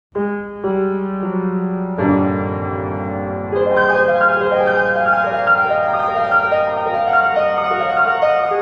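Instrumental piano music: a few sustained chords, then a flowing run of notes comes in a few seconds in.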